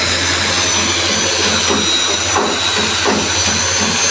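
Power sander running steadily against a large wooden log, a constant hum with hiss and a few high whining tones.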